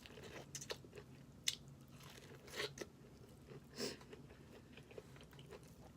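Close-up mukbang eating sounds from a snow crab boil: a few scattered crunchy bites with chewing in between.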